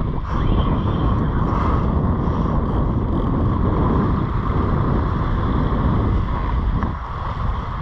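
Steady wind buffeting the microphone, with surf washing on the beach under it.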